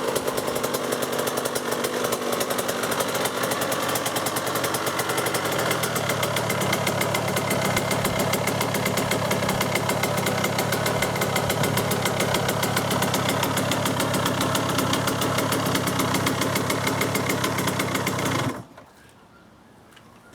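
2006 KTM 85 SX two-stroke single-cylinder engine idling with a fast, even beat while warming up from a cold start. It is shut off near the end and cuts out suddenly.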